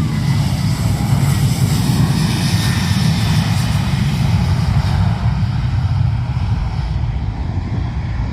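Airplane engines running loud and steady as an aircraft passes close, the high hiss thinning out over the last few seconds.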